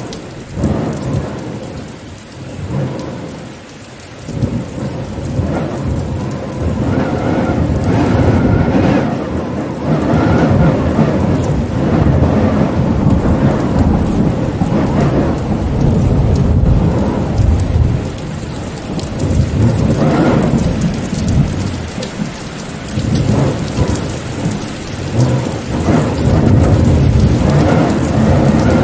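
Rainstorm: steady rain with a deep rumble that swells and fades throughout, easing for a few seconds near the start before building loud again.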